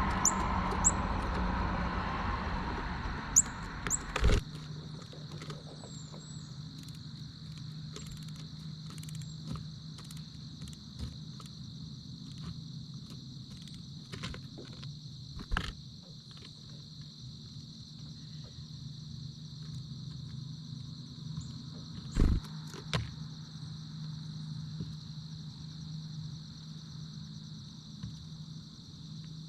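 A steady high-pitched insect trill, like crickets, runs throughout. A passing car fades out over the first few seconds. A few sharp knocks come at intervals, and a couple of brief high chirps sound near the start.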